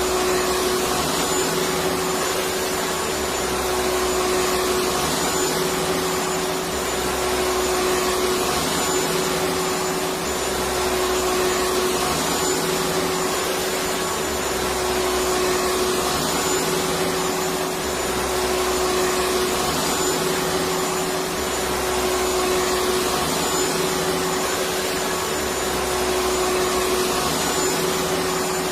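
Electric vacuum cleaner running continuously: an even rushing hiss of air with a steady motor hum, used as white noise for babies.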